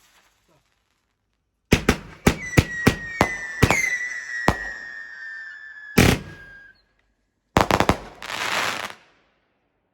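Multi-shot firework cake going off: a quick run of about eight sharp bangs with a shrill whistle sounding over them for about four seconds, a single loud bang about six seconds in, then a crackling, hissing burst near the end.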